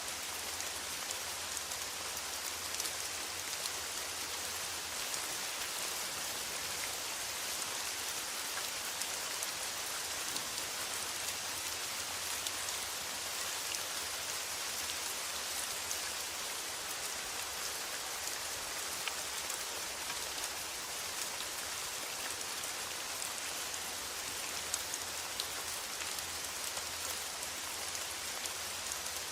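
Steady rain falling on a metal roof, a dense even patter with many small drop ticks.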